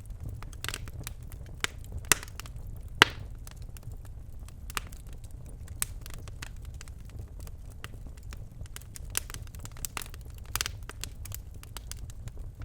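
Birchwood fire crackling in a fireplace: irregular sharp pops and snaps over a steady low rumble of the flames, the loudest pop about three seconds in.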